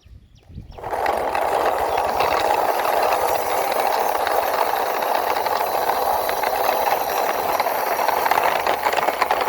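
Toy crane truck pushed along by hand, its plastic wheels and body giving a steady rolling rattle that starts about a second in.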